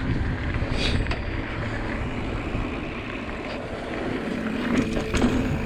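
Wind buffeting the microphone and tyres rolling over dirt while riding a mountain bike down a trail, with a few scattered clicks and rattles.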